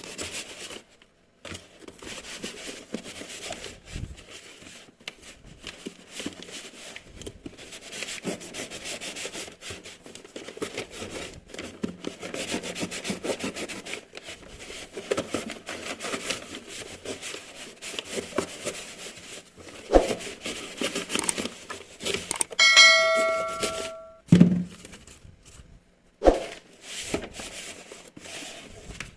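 Rustling, scraping and clicking of packaging and plastic parts being handled, with a few sharp knocks. About three-quarters of the way through, a brief ringing chime with several overtones sounds, followed by a dull thud.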